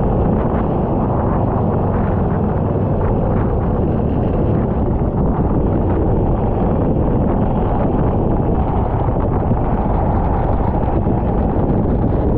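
Go-kart engine running at speed under heavy wind buffeting on the onboard microphone, a steady, loud, dense rumble with no clear pitch changes.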